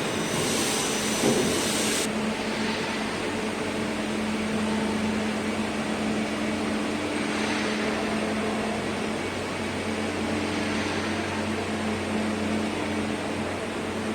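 Baffle ceiling roll forming machine running with a steady mechanical hum. A high hiss stops about two seconds in, and there is a brief knock just over a second in.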